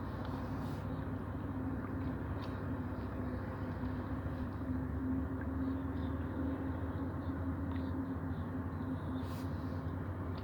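Steady low mechanical drone with a constant hum, holding the same level throughout.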